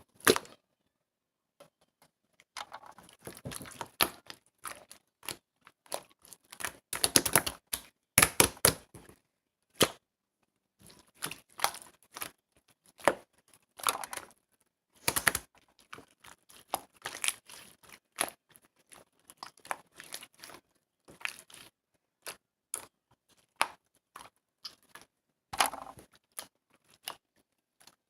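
Clear slime being squeezed and pressed by hand: irregular sticky pops and crackles, with a denser run of squelching pops about seven to nine seconds in.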